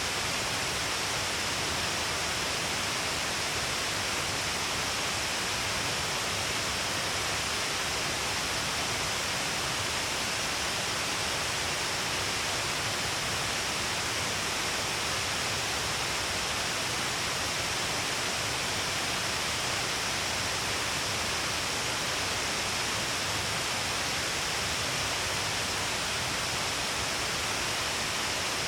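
Shiraito Falls, many strands of water falling along a cliff face: a steady, dense rush of falling water and spray with no breaks.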